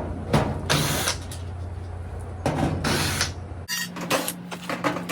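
Tool and panel-handling sounds: short bursts of clatter and scraping while working on the back of a dryer, over a steady low hum that stops abruptly near the end and gives way to a higher, fainter hum.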